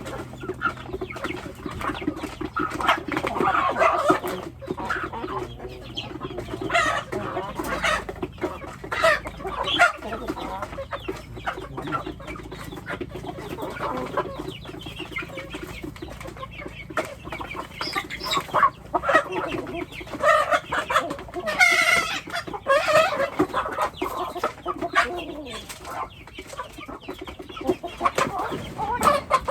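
A flock of domestic chickens clucking, with many short, irregular calls overlapping one another.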